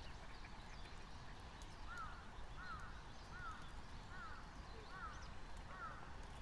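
A bird calling a run of six short, arched notes, about one every two-thirds of a second, starting about two seconds in, over a steady low rumble.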